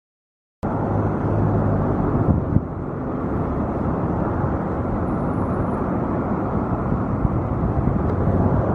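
Jet airliner engines rumbling, a steady low noise that cuts in abruptly about half a second in.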